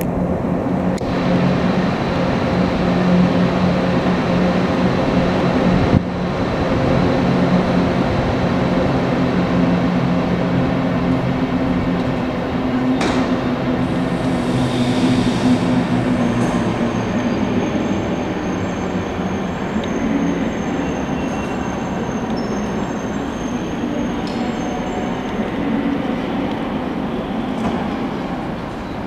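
Train running on the rails: a steady low drone with a few sharp clicks, the drone easing off past the halfway point, and a thin high whine in the second half.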